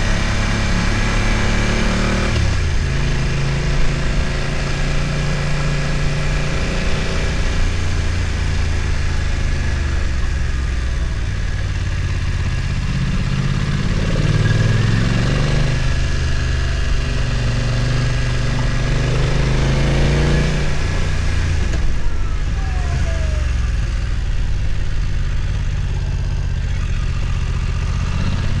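BMW F900 XR motorcycle's parallel-twin engine running under a rider's throttle at fairly low revs. The revs drop about two seconds in, climb again near the middle and fall back a few seconds later.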